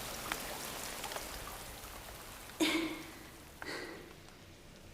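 A steady rain-like hiss that slowly fades, with faint ticks. Two short, sharp breath sounds come a little past halfway, one after another about a second apart.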